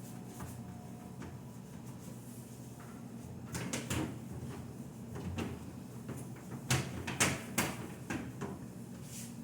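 Refrigerator doors and drawers being handled: a few knocks and clatters about three and a half seconds in, then a cluster of sharper knocks around seven seconds, over a steady low hum.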